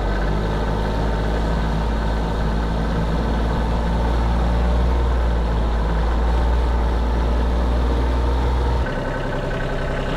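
The 1978 Kubota B6100's small diesel engine running steadily under load with a deep drone while pulling a car out of deep snow. The deep drone drops off abruptly near the end.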